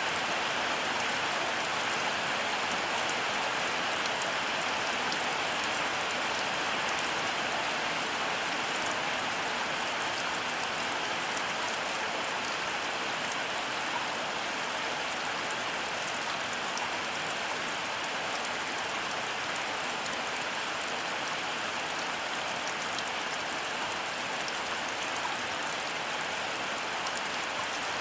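Heavy rain falling steadily: a dense, even hiss with faint ticks of individual drops striking surfaces.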